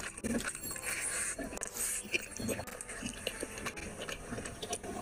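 Close eating sounds: wet chewing and lip-smacking of rice and curry eaten by hand, a rapid irregular run of short clicks and smacks.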